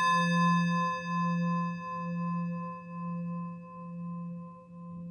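A struck singing bowl ringing out and slowly fading, its low tone pulsing about once a second.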